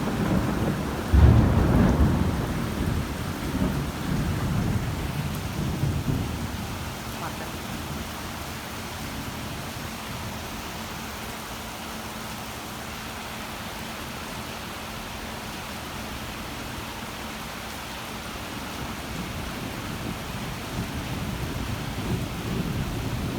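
A thunderclap breaks about a second in and rumbles away over several seconds, over steady heavy rain that goes on after the thunder fades.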